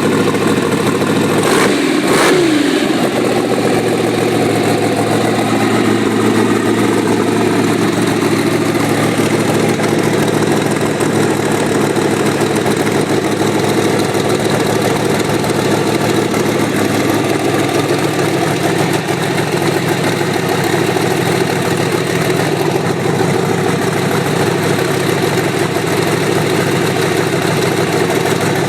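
Freshly built twin-turbo V8 engine running on its second fire-up, idling steadily. About two seconds in, a brief rev falls back to idle.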